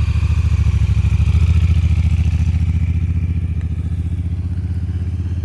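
Honda Africa Twin's parallel-twin engine running with a steady low throb, growing slightly fainter in the second half.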